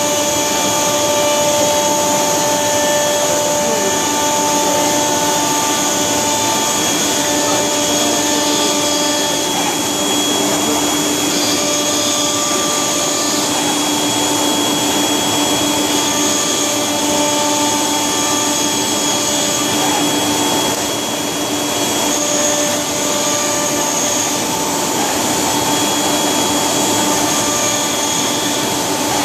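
Steady machine noise, a constant rushing hum with several held pitches over it, dipping slightly for a moment about two-thirds of the way through.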